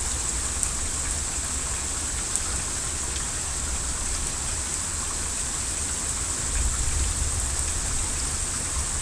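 Heavy rain falling steadily on the ground and hard surfaces, an even hiss, with a low rumble underneath that swells briefly about seven seconds in.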